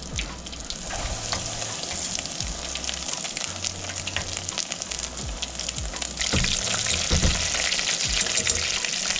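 Eggs frying in a hot pan, a steady sizzle with many small crackles that grows louder about six seconds in.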